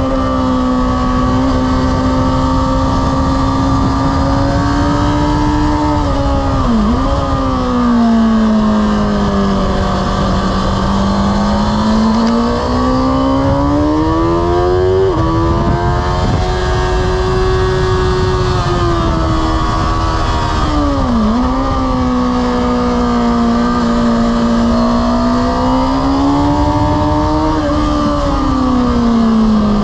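Sport motorcycle engine running hard on track as heard from on board, its pitch rising and falling with the throttle through the corners, with two sharp dips and quick recoveries, one about a quarter of the way in and one about two-thirds through. Steady wind and road rush lies underneath.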